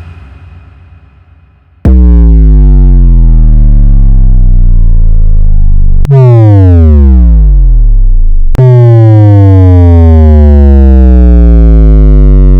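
Three cinematic synthesizer bass drops follow one another. Each is a loud, low, buzzy tone that starts abruptly and slides down in pitch; the middle one falls much faster than the other two. At the very start, the tail of an earlier impact hit is fading out.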